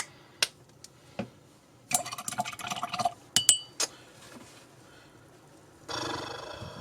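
A paintbrush swished and tapped against a glass water jar: a rattling swish, then a few bright ringing clinks of glass, with scattered small clicks around them.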